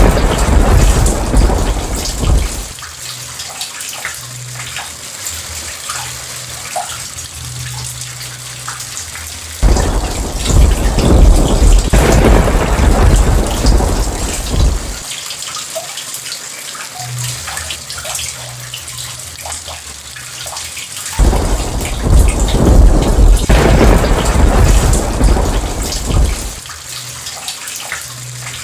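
Steady rain falling, with three long rolls of thunder. The first is dying away in the opening seconds. The other two break in suddenly about ten and twenty-one seconds in, and each rumbles for around five seconds before fading back to the rain.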